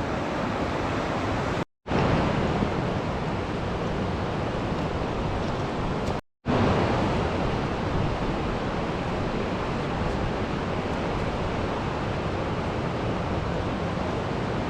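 River water rushing over rocks in a steady noise, broken by two short silent gaps about two and six seconds in.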